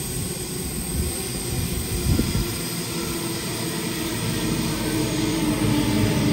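Double-deck electric passenger train approaching through a tunnel into an underground station, its rumble growing steadily louder as it nears the platform.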